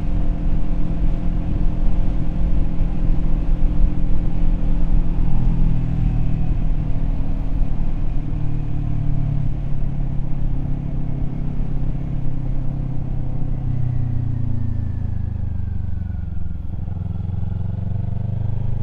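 Kawasaki Z400's parallel-twin engine running steadily under way. About fourteen seconds in its pitch drops as the bike slows, then it climbs again near the end.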